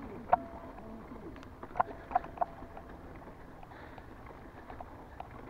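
Bicycles being ridden, with a low steady running noise and faint ticks. Four short, sharp squeaks come from the bikes: one near the start and three close together about two seconds in.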